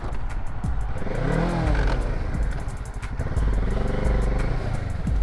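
Kawasaki Z650's parallel-twin engine running under way, the revs rising and falling about a second in, with a heavy low rumble throughout.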